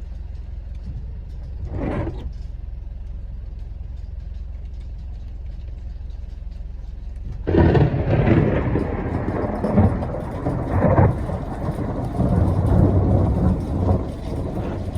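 Thunder: a faint short rumble about two seconds in, then a loud clap about halfway through that rolls on, rising and falling, to the end, over a steady low hum.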